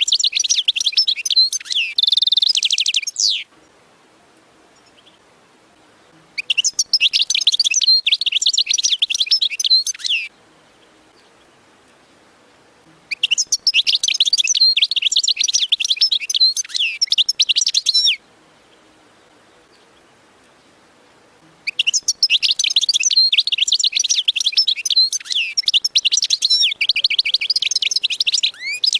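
A finch singing in long, rapid, high trilling phrases: four bursts of song of about three to eight seconds each, separated by pauses of about three seconds.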